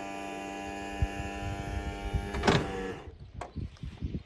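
A small electric motor running with a steady hum, over a few knocks, then stopping about three seconds in.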